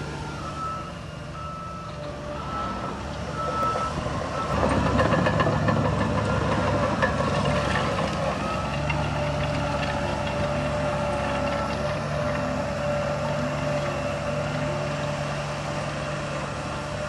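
A heavy diesel machine's reversing alarm beeps at a steady pace over its running engine. About four and a half seconds in, the engine gets markedly louder, as if put under load, and stays loud.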